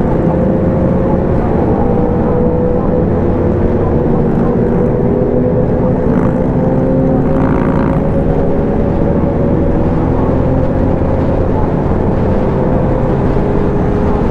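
Motorcycle engine running at a steady cruise, its pitch drifting slowly, with wind rush on the microphone.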